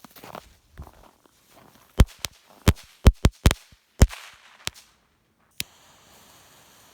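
A pack of firecrackers going off: about nine sharp bangs in a quick, irregular string, most of them between two and four seconds in, with a last lone pop near the end.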